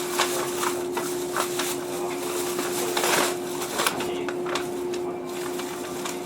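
Steady electrical hum from a JR 115-series train standing at its terminus, with scattered knocks and clatter over it.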